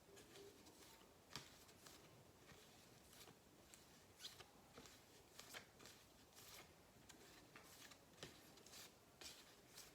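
Near silence with faint, irregular clicks and rustles, about one or two a second, of cardboard flashcards being flipped by hand.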